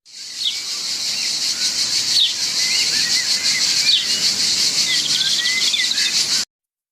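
Small birds chirping over a dense, high-pitched, finely pulsing insect buzz. The sound cuts off suddenly near the end.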